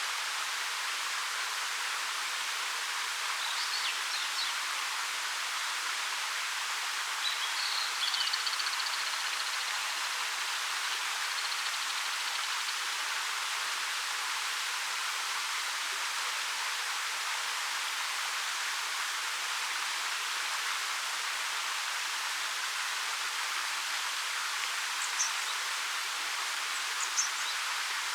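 A 13-metre waterfall rushing steadily, a bright, even hiss with little low rumble. A few faint, brief high chirps sound over it, about 4 and 8 seconds in and twice near the end.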